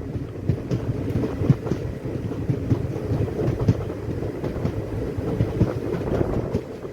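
Indian Railways passenger train running: a steady rumble with many irregular knocks of the wheels over the rail joints.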